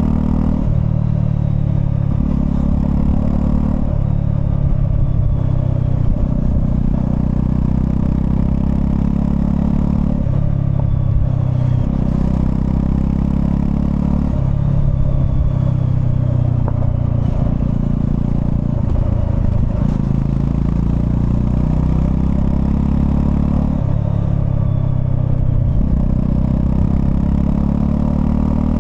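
Honda CL250 motorcycle engine running under way, its revs rising and dropping in steps several times.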